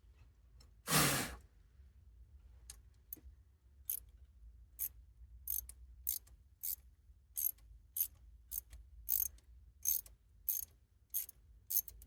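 Socket ratchet working a glow plug on a Kubota D905 diesel engine, the pawl clicking about once every half second. Whether the plug is coming out or just spinning round in its thread is in doubt. A loud, brief rasp about a second in is the loudest sound.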